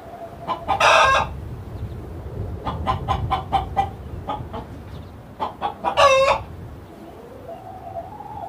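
Chickens clucking, with a loud call about a second in and another about six seconds in. Between the calls comes a run of quick short clucks, and a rising call starts near the end.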